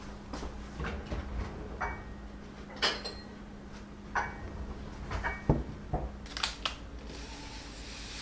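Dishes and utensils being handled: scattered clinks and knocks, the loudest about three and five and a half seconds in, with a brief hiss near the end.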